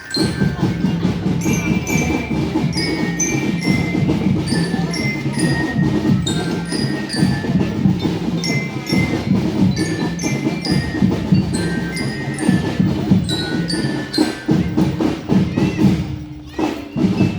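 Marching drum band playing: drums beating under a melody of short ringing notes from marching bells (glockenspiel-type bell lyra). It cuts in sharply at the start and stops about a second before the end.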